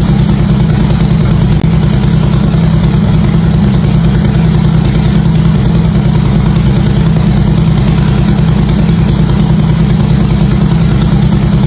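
Harley-Davidson V-twin engine idling steadily through its exhaust, a loud, even, deep pulsing with no revs.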